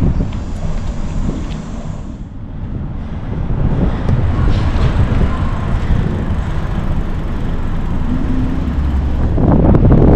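Wind rumbling over the microphone while riding a bicycle, growing louder near the end.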